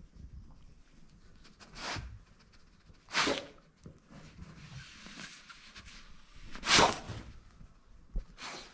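A young German Shepherd sniffing along a sheet with its nose on the fabric, blowing three short, sharp snorts of air out through its nose, about two, three and seven seconds in, the last the loudest.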